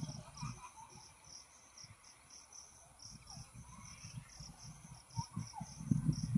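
Insects chirping in a steady pulsed rhythm, about three pulses a second, with faint low rumbles underneath that grow louder near the end.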